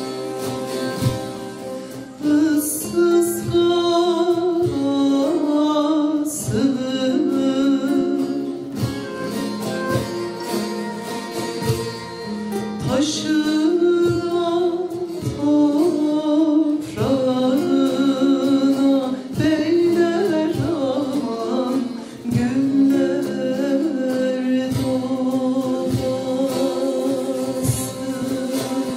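Turkish folk song (türkü) sung by a choir with ornamented melody, accompanied by strummed and plucked saz (bağlama) lutes.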